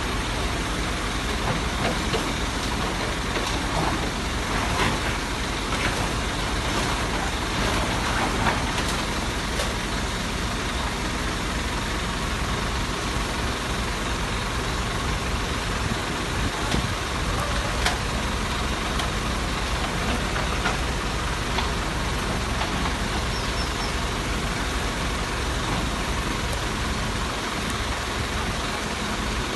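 A large engine, like that of a truck or heavy machine, running steadily, with a few short knocks here and there.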